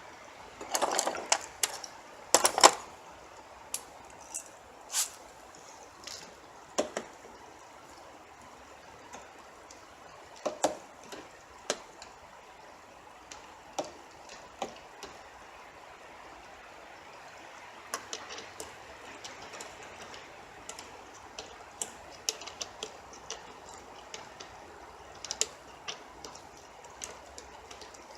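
Irregular metallic clicks and clinks of hand tools and parts being handled during reassembly, loudest in a quick cluster in the first three seconds, over a steady faint hiss.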